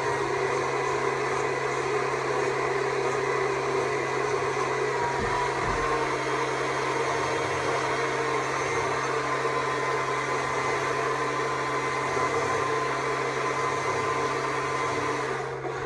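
Stihl MSA 200 C battery chainsaw's electric motor and chain running steadily.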